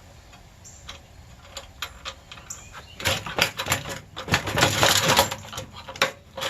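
Scattered light clicks, then from about three seconds in a dense run of metal clanking and rattling as an air conditioner unit is pulled apart for scrap.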